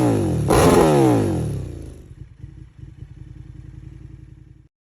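KTM 1290 Super Duke R's V-twin engine through an Akrapovič full titanium exhaust, blipped sharply once about half a second in, with the revs falling away and dropping to a much quieter idle after about two seconds. The sound cuts off abruptly near the end.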